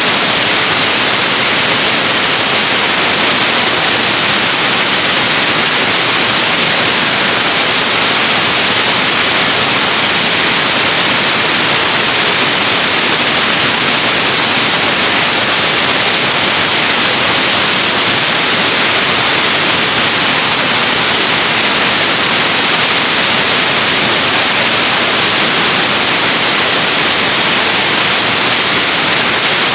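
Waterfall: water falling and rushing in a loud, steady, unbroken hiss.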